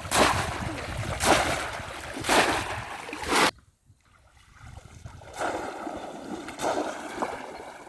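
Splashing in shallow water: four loud splashes about a second apart, then an abrupt cut, followed by softer sloshing and trickling.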